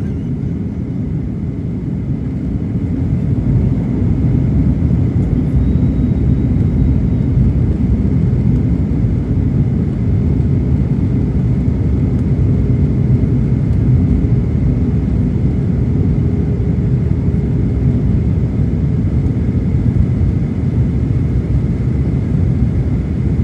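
Steady cabin noise of a Boeing 737-900ER airliner in flight, a low rumble of engines and airflow with a faint thin steady tone above it, growing a little louder over the first few seconds.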